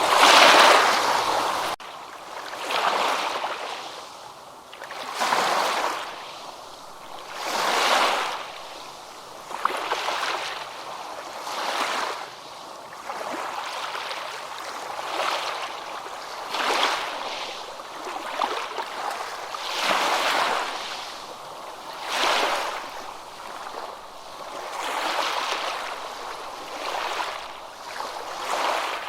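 Ocean surf: waves washing in and drawing back, a swell of hissing water about every two seconds. The sound is loudest at the start and drops suddenly just under two seconds in.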